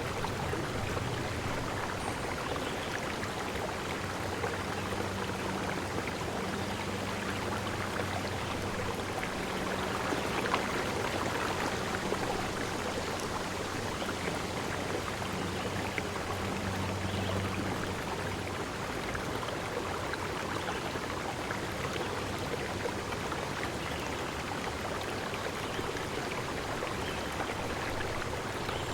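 Flowing water running steadily, an even rushing noise, with a faint low hum underneath through roughly the first two-thirds.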